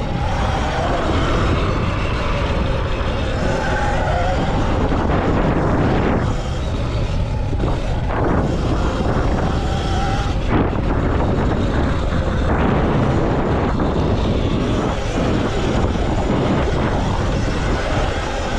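Electric motocross bike riding hard, its motor whine rising and falling in pitch with the throttle under a heavy, steady rush of noise.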